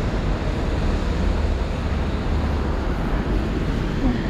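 Steady rushing noise of a city street in heavy rain, with a low rumble underneath.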